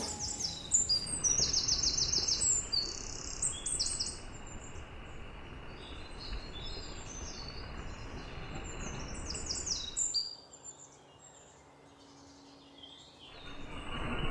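Birds chirping and singing, with quick runs of repeated high notes over a steady outdoor background hiss. About ten seconds in, the hiss drops away almost to silence, leaving only faint chirps, and it returns near the end.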